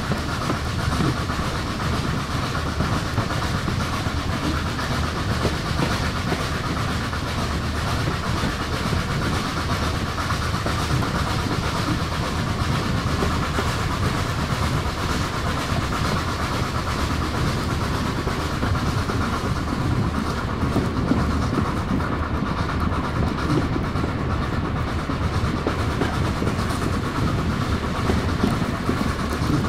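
Railway carriage running along the line, heard from its open window: a steady noise of wheels on the track with irregular light clicks.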